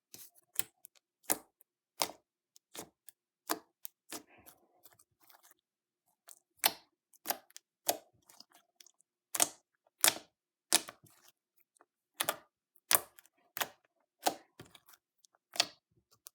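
Homemade glue-and-borax slime being squeezed and folded by hand, giving a string of sharp wet clicks and pops, about one or two a second, with a softer crackle about four seconds in.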